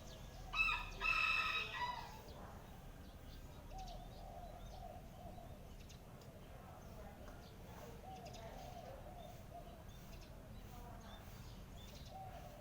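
A rooster crows once, loud, from about half a second in for about a second and a half, its call dropping in pitch at the end. Fainter, lower bird calls waver on and off for the rest of the time.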